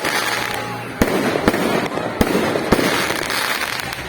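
Fireworks going off: a steady dense crackling with four sharp bangs in quick succession from about a second in.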